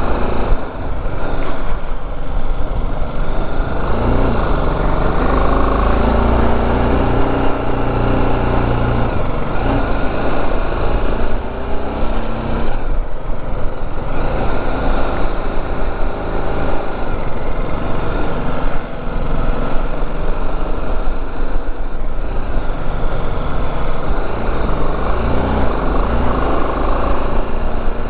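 BMW G310GS motorcycle being ridden, its single-cylinder engine running steadily under heavy wind rush on the microphone, with a few brief dips in the noise.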